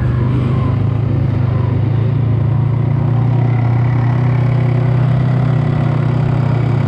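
Dirt bike engine running steadily, its pitch holding level with no revving.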